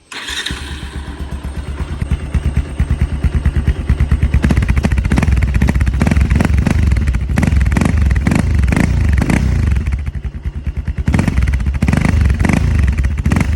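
Bajaj Pulsar 220F single-cylinder engine firing up and running through its stock exhaust with the dB killer removed. It idles at first, then the throttle is blipped again and again from about four seconds in, with a short lull before a second run of revs near the end.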